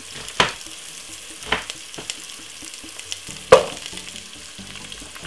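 Carrot, garlic and thyme sizzling in a little vegetable oil in a pot, with three sharp knocks, the loudest about three and a half seconds in.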